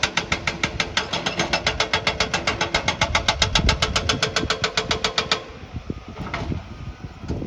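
Construction machinery making a fast, even mechanical hammering at about eight knocks a second, which cuts off abruptly about five seconds in. A quieter low rumble with a few scattered knocks follows.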